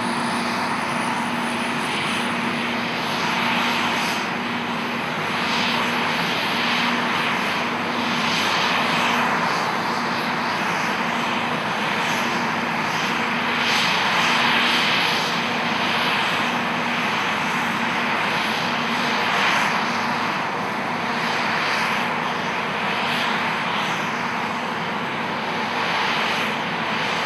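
New Holland CR9090 combine harvester running steadily while harvesting oilseed rape, a continuous engine and threshing drone that swells and eases every few seconds. A faint steady hum underneath fades out about two thirds of the way through.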